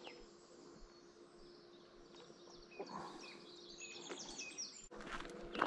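Faint birdsong: small birds chirping in short, high calls, scattered, with more of them a few seconds in. A faint steady hum lies beneath.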